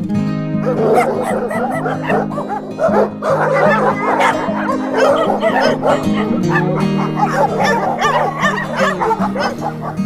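Dogs, likely puppies, yipping and whimpering in many quick overlapping high calls that start about half a second in, over acoustic guitar background music.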